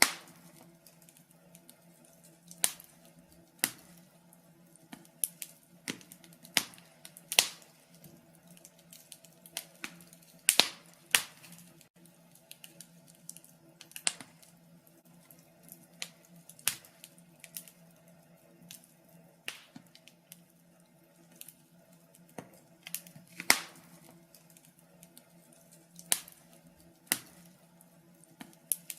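Wood fire crackling in a fireplace: sharp, irregular pops and snaps, some much louder than others, over a faint steady low hum.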